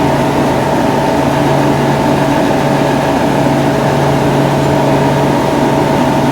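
Car engine idling with a steady hum and a few constant tones.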